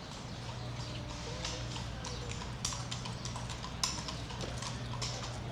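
Footsteps striking a hard path, sharp clicks a few times a second, over a low steady background hum.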